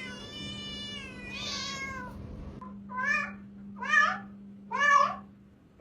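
A cat meowing: first a long, drawn-out meow falling in pitch, then a shorter one, then a run of four short, loud meows about one a second. A steady low hum sits underneath.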